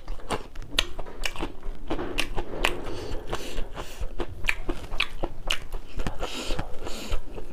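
Close-miked crunching and chewing of a raw green vegetable, with crisp, irregular crunches several times a second as it is bitten and chewed.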